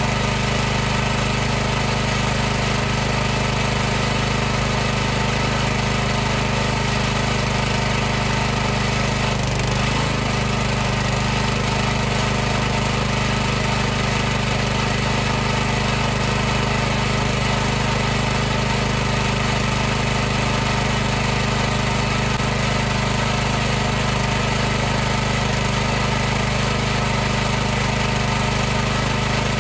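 High-pressure washer pump motor running steadily with a constant hum and a hiss of spraying water.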